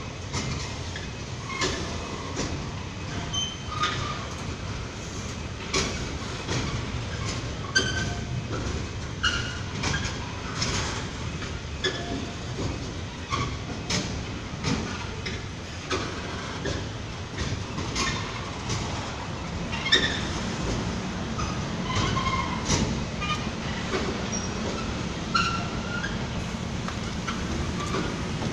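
Freight train of covered car-carrier wagons rolling slowly across a street level crossing: wheels clicking irregularly over the rail joints and crossing, with short squeals from the wheels. Toward the end, once the train has cleared, a steady low hum of idling road traffic takes over.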